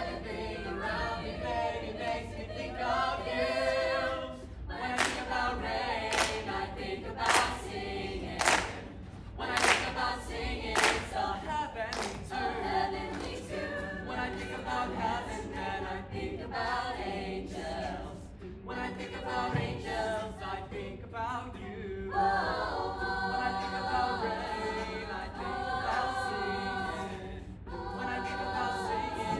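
Madrigal choir singing a cappella in several parts. In the first half, a run of sharp percussive hits comes about once a second.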